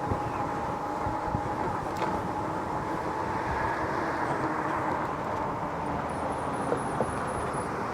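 Steady wind and road noise from riding a Lectric XP e-bike, with a faint steady whine running under the rumble and a short run of faint high chirps near the end.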